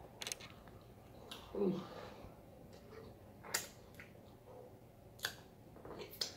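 Close-miked wet mouth sounds of a person chewing a breakfast sandwich: sharp lip smacks every second or two and a short hummed "mm" about a second and a half in, with a last smack near the end as a finger is sucked clean.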